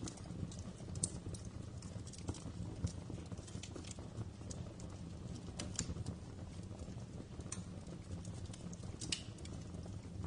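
Wood fire crackling in a fireplace: irregular sharp pops and snaps over a steady low rumble. The sharpest pops come about a second in, near three seconds and about nine seconds in.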